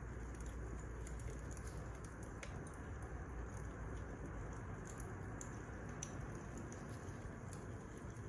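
Wood fire crackling: irregular sharp pops and snaps over a steady low rush of the burning logs.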